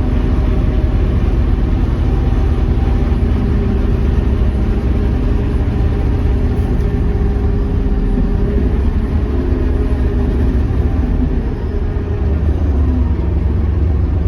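Scania K230UB bus's diesel engine running steadily, with a short dip in loudness about three-quarters of the way through.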